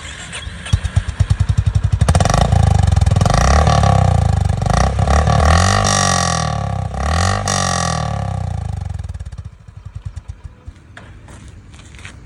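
Single-cylinder motorcycle engine and exhaust thumping at idle, then revved up and down several times. It drops back and dies away about three-quarters of the way through.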